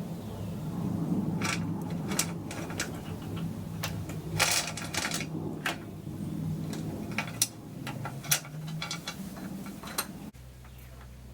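Irregular sharp clicks and taps, a few louder strikes among them, over a steady low hum; about ten seconds in the sound cuts off suddenly, leaving only the hum.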